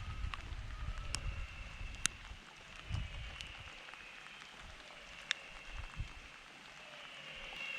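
Riverside ambience after rain: scattered sharp drips of water, with a faint repeated high chorus of animal calls behind them. A low rumble fades out about two and a half seconds in.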